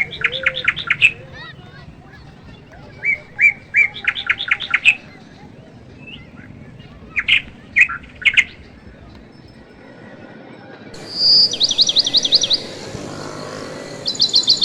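Bird song: short phrases of high chirps, each a few separate notes followed by a quick trill, repeated every few seconds.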